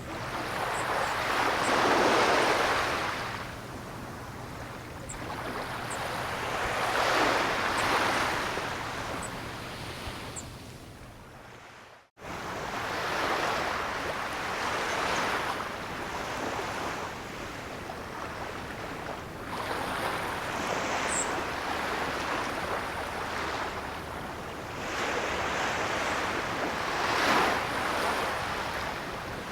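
Ocean surf: waves breaking and washing in, swelling and fading every five seconds or so. About twelve seconds in, the sound fades and cuts to a moment of silence, then resumes.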